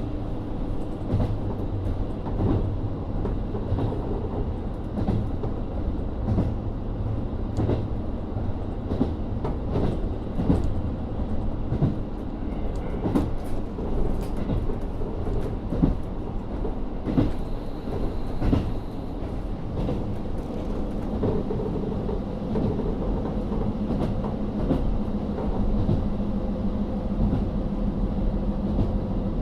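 Running sound inside a JR Hokkaido KiHa 40 (350 series) diesel railcar: its N-DMF13HZB diesel engine drones steadily while the wheels click over rail joints. The engine note changes about twenty seconds in.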